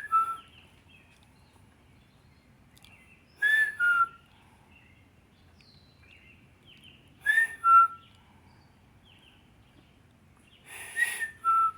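A person whistling an imitation of a bird's call: a two-note whistle, a higher note dropping to a lower one, repeated four times with pauses of a few seconds between.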